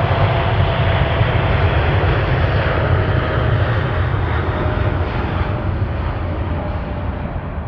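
Airliner engines rumbling as the aircraft passes close by, with a faint whine that slowly falls in pitch. The sound gradually fades toward the end.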